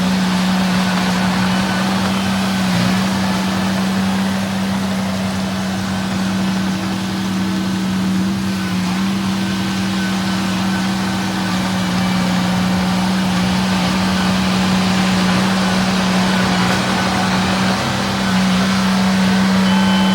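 Small bulldozer's diesel engine running at a steady, unchanging pitch.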